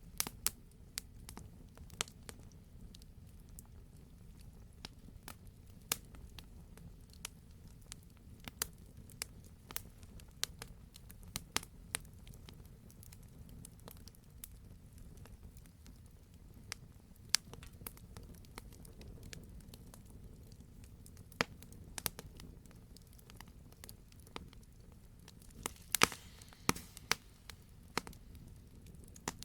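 Wood fire burning in a fireplace, with a low steady rumble and irregular sharp pops and crackles, a burst of louder pops near the end.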